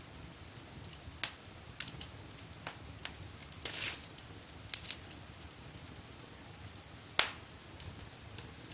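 Wood fire crackling in a fireplace: irregular sharp pops over a faint hiss, a short burst of crackling about four seconds in and one loud crack near the end.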